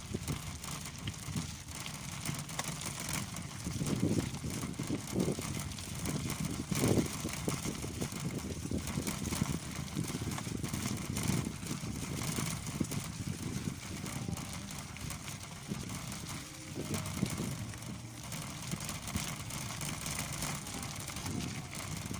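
Bicycle being ridden: a steady noise of tyres and frame with many small scattered knocks and rattles, over gusty low rumbling from wind on the microphone.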